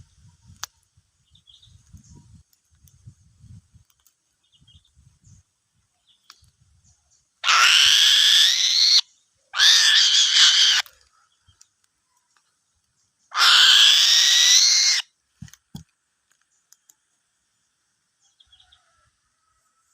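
Eagle calling three times, loud high-pitched calls about a second to a second and a half each, the pitch rising at the start of each call. Faint low knocks and rustling come before the calls.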